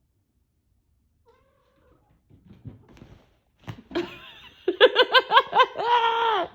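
Orange tabby cat giving an annoyed, drawn-out yowl. It starts about four seconds in with a harsh, noisy onset, breaks into a quick wavering run of about five pulses a second, and ends on a held note.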